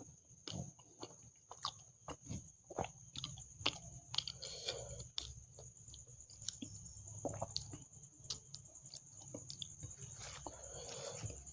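Close-miked chewing and biting of food, made of many irregular small wet clicks and crunches. A faint steady high-pitched whine runs underneath.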